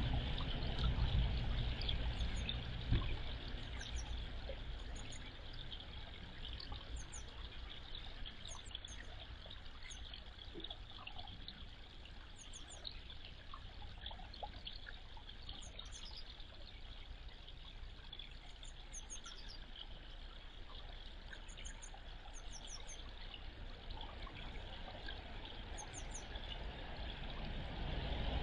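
Short, high, thin bird chirps repeated every second or two over a steady hiss, with a low rumble in the first few seconds.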